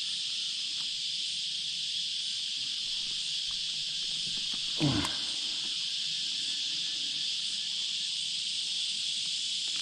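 Steady, high-pitched chorus of insects, with one short falling sound about five seconds in.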